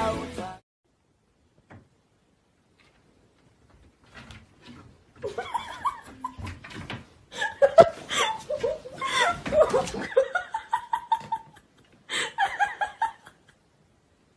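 Laughter in runs of short bursts, starting about five seconds in and breaking off briefly before one last burst near the end. A music track cuts off in the first half second.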